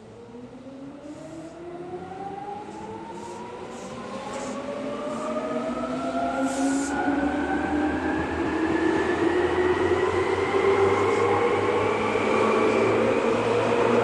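Seibu 3000 series electric train pulling away and accelerating: its traction motors and gearing whine in several tones that rise steadily in pitch while the sound grows louder.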